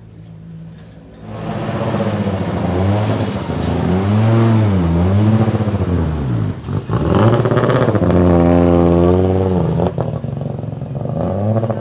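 Turbocharged 2.2-litre five-cylinder engine of an Audi 200 Turbo Quattro race car pulling hard. About a second in, the revs climb and drop several times in quick succession, like upshifts. There is a sharp lift about two-thirds of the way through, then a long high-revving pull, another brief lift, and the revs climb again near the end.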